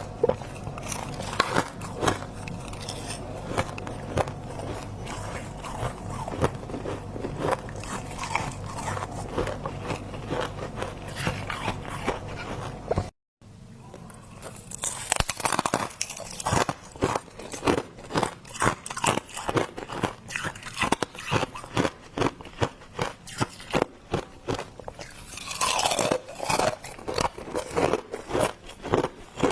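Freezer frost being bitten and chewed close to the microphone: dense, irregular icy crunching. There is a brief break about 13 seconds in, after which the crunches come sharper and denser.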